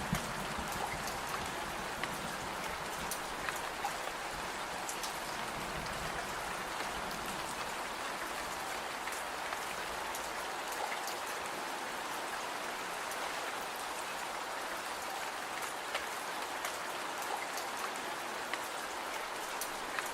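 Steady rain falling, with scattered faint sharp ticks in the hiss.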